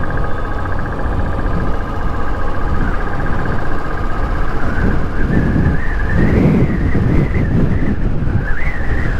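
Wind buffeting the microphone of a motorcycle riding at speed, over the steady drone of the bike; the wind surges in gusts about five to seven seconds in.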